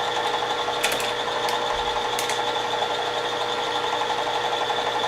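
Milling machine running steadily, a constant whine from the spindle and drive, with a few light clicks about one to two seconds in.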